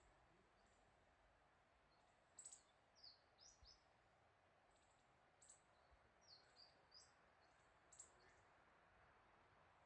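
Faint short, high chirps of small birds calling, in scattered groups from about two seconds in until near the end, over a quiet steady hiss.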